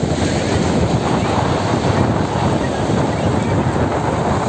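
Sea waves washing in, with wind blowing across the microphone: a loud, steady noise heaviest in the low range.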